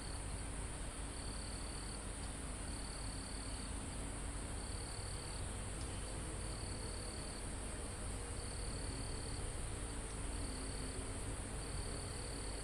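Crickets and other insects calling: one steady, very high trill, with a second, lower trill switching on and off in stretches of about a second. Under it sits a low, steady rumble.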